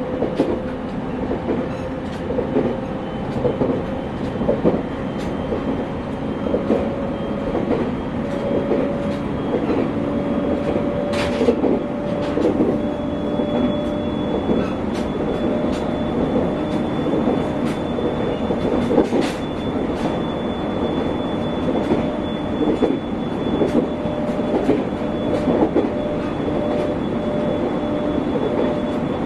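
JR East 701 series electric train heard from inside a motor car running along the line: a steady motor whine that rises slightly in pitch over the first dozen seconds and then holds, over a rumble, with wheels clicking over rail joints. A faint high whine joins about halfway through.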